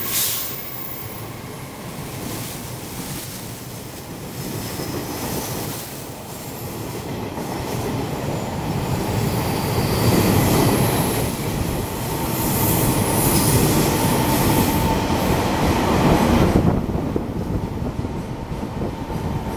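Passenger carriages of a Taiwan Railways train passing close by: a steady rumble of wheels on rail that grows louder, with a high-pitched wheel squeal at times. About three-quarters of the way in it falls away sharply to a fading rumble as the last carriage goes by.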